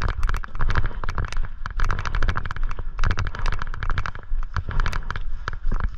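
A dense, irregular clatter of sharp clicks and knocks, several a second, over a low rumble.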